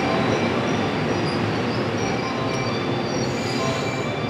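JR 115-series electric train moving along the platform, a steady rumble of wheels and running gear with thin high wheel squeals over it. It eases off slightly as the last car passes and draws away.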